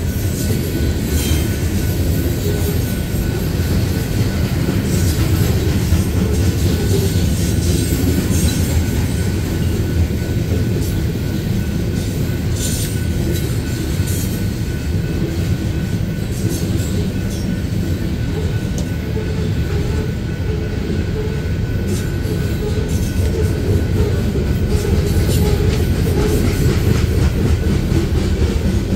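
Loaded coal hopper cars rolling past on steel wheels: a steady heavy rumble on the rails, with scattered sharp clicks and a faint steady high tone.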